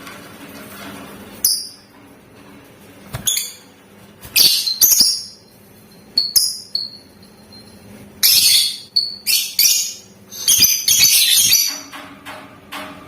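Lovebird calling in sharp, shrill, very high-pitched chirps and screeches, in short bursts every second or two, running into a longer, denser string of rapid calls near the end.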